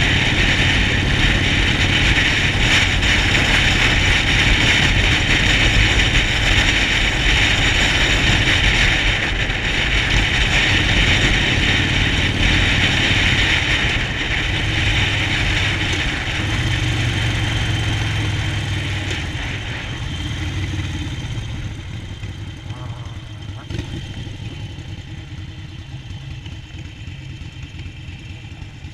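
Harley-Davidson Sportster Forty-Eight's 1200 cc air-cooled V-twin running while riding, under a steady rush of wind noise. Both quieten over the last several seconds.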